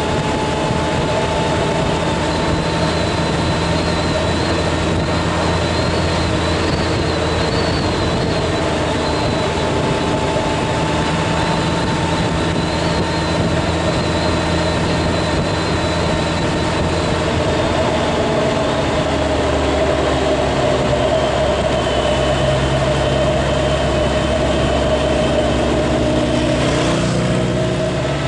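Restored Kawasaki W1's 650 cc parallel-twin engine running steadily. Its low note shifts about two-thirds of the way through.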